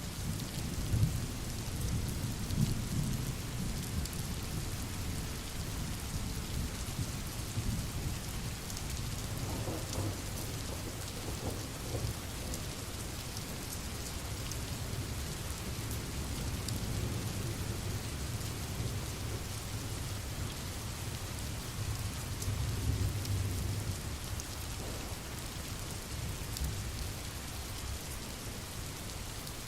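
Steady rain falling, with low rolling thunder rumbling underneath, strongest near the start and again about three quarters of the way through.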